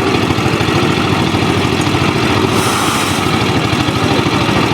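Engines of a concrete mixer and crane running steadily during a slab pour, with a fast low throb. A short hiss about two and a half seconds in.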